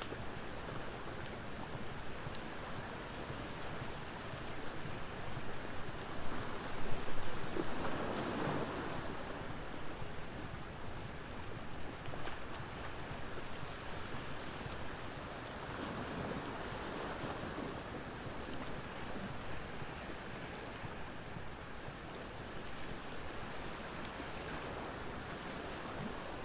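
Ocean surf washing onto the shore in slow swells, with a wood campfire crackling now and then over it.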